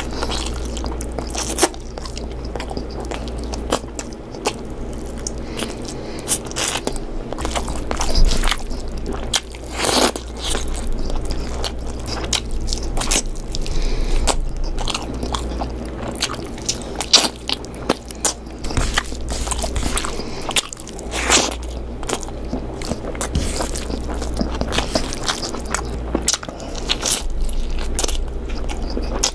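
Close-miked chewing and biting of chicken curry, with many short, sharp clicks of the mouth and food over a steady low hum.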